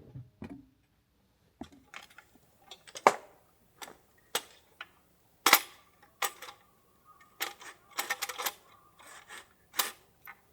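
A string of irregular sharp clicks and knocks, like small hard objects being handled and set down. The loudest comes about three seconds in.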